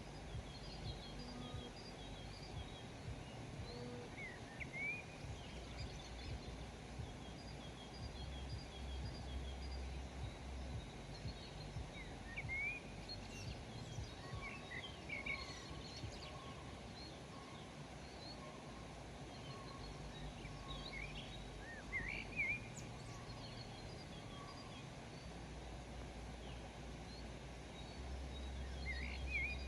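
Several small birds chirping in short, scattered calls, some rising and some falling, over a steady low background rumble.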